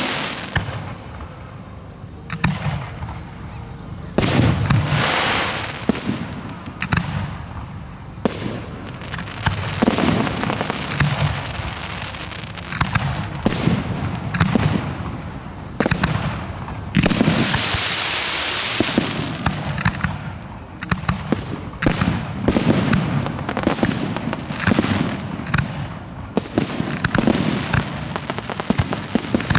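Professional display fireworks going off in quick succession: a steady run of sharp shell bursts and bangs. There is a longer, denser hissing crackle a little past halfway.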